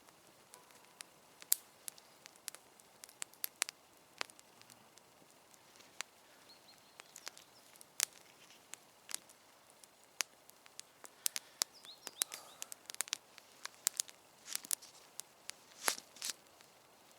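Campfire of damp wood crackling, with irregular sharp pops and snaps that come more thickly in the second half.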